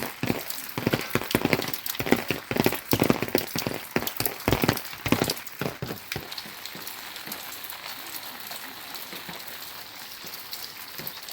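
Rain falling, with loud, irregular drops striking close by for about the first six seconds, then settling into a steady, even hiss.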